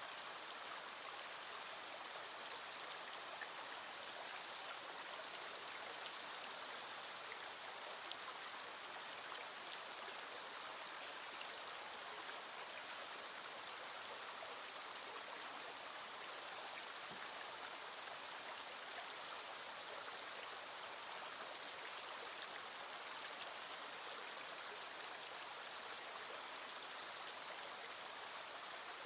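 Small stream flowing steadily over its bed, a constant even rush of water, with a few faint ticks standing out here and there.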